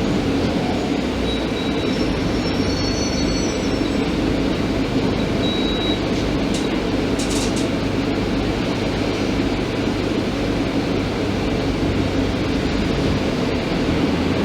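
Scania K310IB bus with a Viale BRT body under way, with steady engine and road noise. A few brief high squeaks come a couple of seconds in and again around six seconds.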